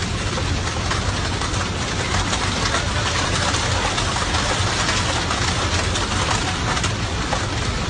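Steady flight-deck noise of a Boeing 737 airliner in flight: a constant rush of air over the cockpit with engine drone beneath it.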